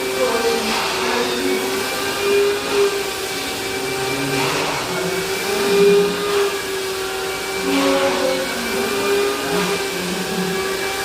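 Vacuum cleaner running over a billiard table's cloth: a steady motor whine under a hiss of suction, with a swell of hiss every few seconds as the nozzle is swept.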